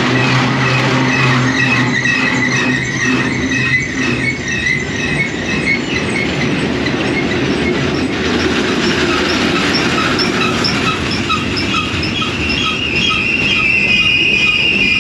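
Train running past on the rails: a steady rumble with regular ticking from the wheels, and a high wheel squeal that grows stronger near the end.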